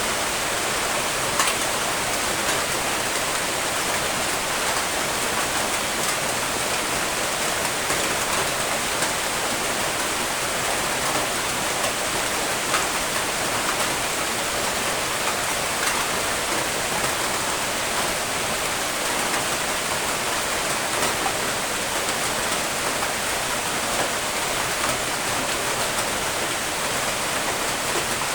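Steady, even rain with a dense hiss and a few faint drop ticks.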